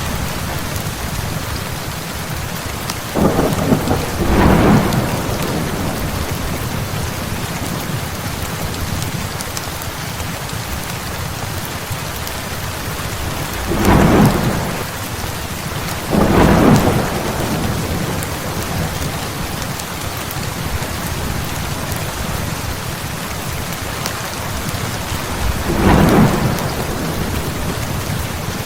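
Heavy rain falling steadily, with thunder rumbling several times: a double rumble a few seconds in, two more around the middle, and another near the end.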